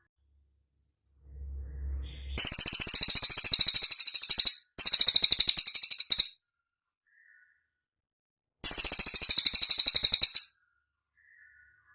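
A cililin singing three rapid trills of high, evenly repeated chips, each lasting about one and a half to two seconds, with short pauses between them.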